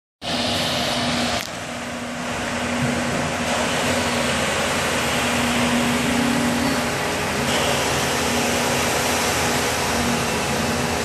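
An engine running steadily: an even mechanical noise with a low hum that wavers slightly in pitch.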